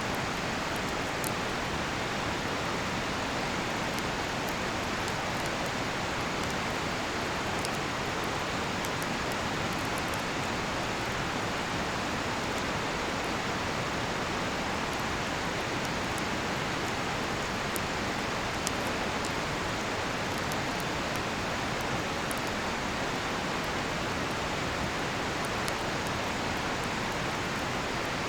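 Steady rushing of a river, with scattered faint sharp crackles and pops from a campfire burning cedar firewood.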